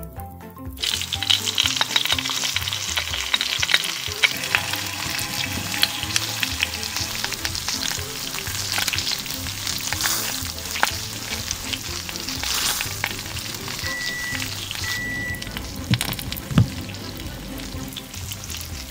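Salmon fillet frying in hot oil in a small stainless steel wok: a crackling sizzle with many sharp pops that starts about a second in as the fish goes into the oil. One brief knock near the end.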